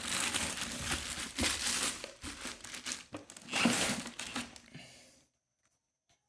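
Irregular rustling and crinkling handling noise in uneven surges, cutting off suddenly about five seconds in.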